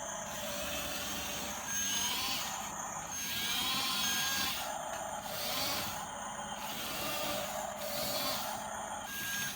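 Small electric drive motors and gearboxes of a radio-controlled model bulldozer whining, the pitch rising and falling every couple of seconds as it drives.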